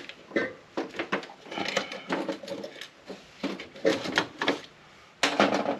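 Irregular clicks and clinks of hand cutters and small metal parts being handled while salvaging brass and wire from a UPS battery backup unit.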